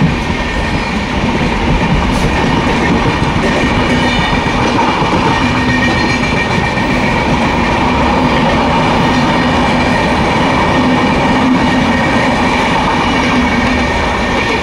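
Steady rumble and wheel noise of two passenger trains running side by side on parallel tracks, heard from aboard the moving EMU train, with a low steady hum underneath.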